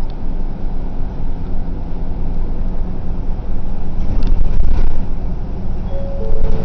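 Bus running, a steady low engine and road rumble. Near the end a short two-note tone sounds, the second note lower than the first.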